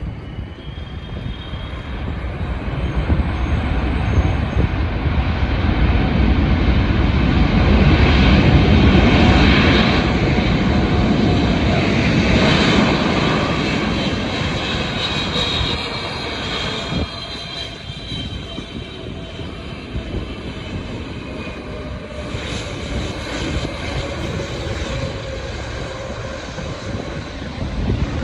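Jet airliner's engines passing by, growing louder to a peak about nine seconds in and then fading, with a whine that slides slightly lower in pitch as it goes past.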